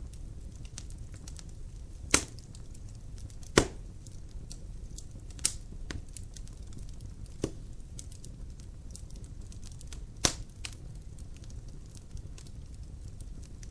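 Fire crackling in a fireplace: a steady low rumble with frequent small crackles and about five louder, sharp pops spread a couple of seconds apart.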